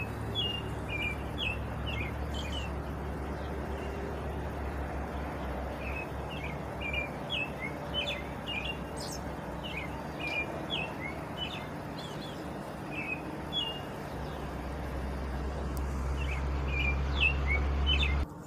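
Small birds chirping in short, repeated notes over a steady background hiss and a low rumble.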